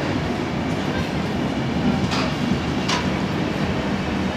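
Rajdhani Express LHB passenger coaches rolling past a platform with a steady rumble of wheels on rail. Two short, sharp sounds from the running gear come about two and three seconds in.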